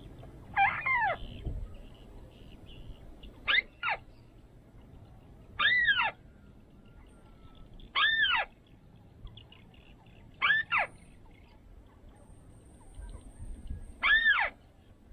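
Bird calls: a loud, short arching note that rises and then falls in pitch, repeated about every two seconds, twice given as a quick double.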